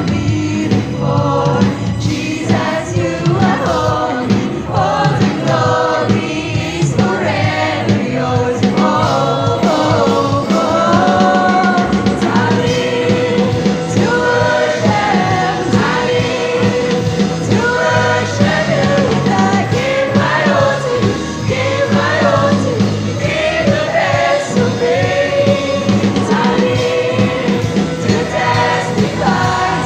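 Youth choir singing a gospel song over a musical accompaniment, with steady sustained notes underneath the voices.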